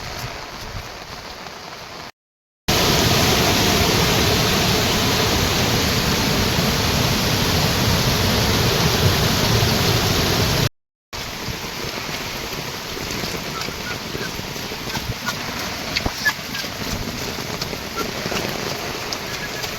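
Heavy monsoon rain falling steadily in three cut-together stretches, each broken off by a moment of dead silence. The middle stretch, from about two seconds in to about eleven seconds in, is a louder, denser downpour. The last stretch is lighter, with separate drops tapping on a surface.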